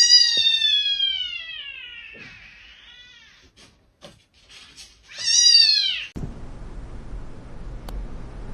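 Cat meowing: a long, drawn-out meow that falls in pitch and fades over about two seconds, then a second, shorter meow about five seconds in.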